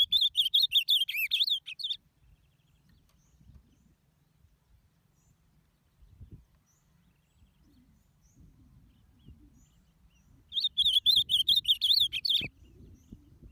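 Ultramarine grosbeak (azulão) singing: a fast warbled song phrase of about two seconds at the start, then quiet with a few faint chirps, then a second phrase about ten and a half seconds in.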